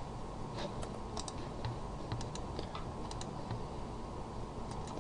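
Irregular, light clicks of computer keyboard keys, about a dozen spread unevenly, over a steady faint background hiss.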